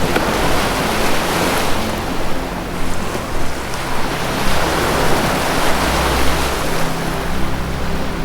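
Ocean surf washing in a continuous, swelling hiss, with a soft sustained low music drone underneath.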